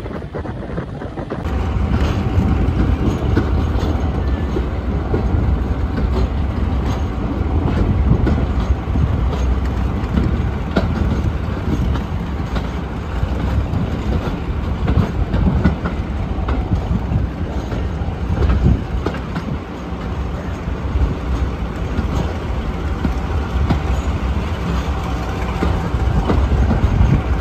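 Train of heritage coaches hauled by Class 42 Warship diesel-hydraulic D821 Greyhound running along the line, heard from an open carriage window: a steady low rumble with the wheels clicking over the rails.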